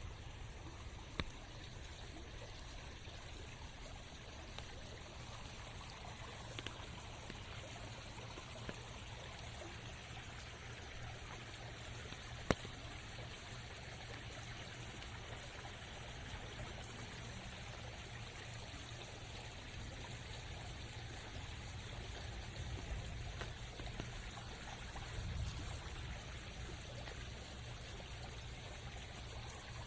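Steady rain falling in a forest, an even rushing hiss of water, broken by a few single sharp clicks such as drops landing.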